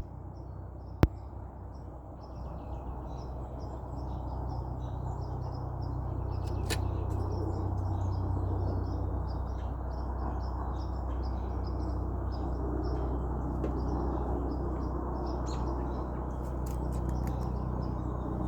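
Many small birds chirping and twittering in short, overlapping calls over a steady low rumble, with one sharp click about a second in.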